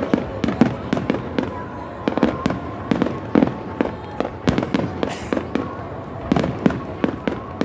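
Fireworks display going off in a rapid, irregular string of sharp bangs, several a second.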